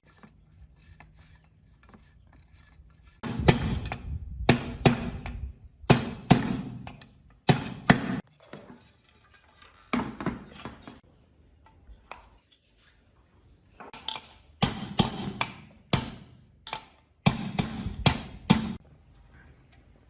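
Metal tool work on machine parts: sharp knocks and clinks in quick clusters of two to four, with short quiet gaps between the clusters.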